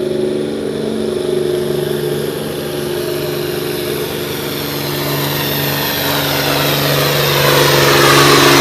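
Modified farm pulling tractor's engine running at a steady pitch, getting steadily louder toward the end.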